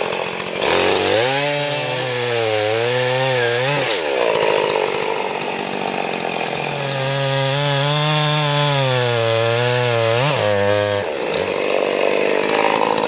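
Chainsaw cutting through storm-felled trees: the engine is held at high revs with its pitch wavering under load in two long cuts, each ending with the revs dropping away.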